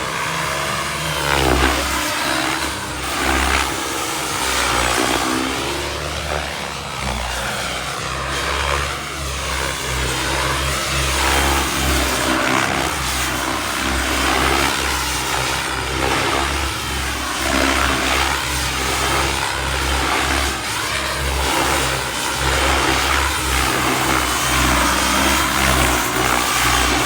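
Miniature Aircraft Whiplash RC helicopter powered by a Wren 45 kerosene turbine, flying 3D: turbine and rotor-blade noise that keeps rising and falling in pitch as it manoeuvres.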